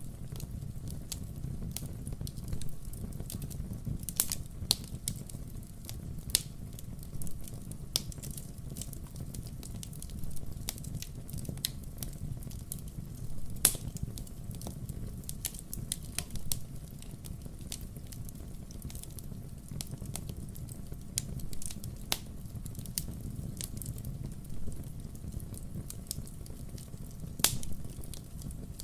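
Wood fire crackling: irregular sharp pops and snaps from the burning firewood, a few of them louder, over a steady low-pitched noise.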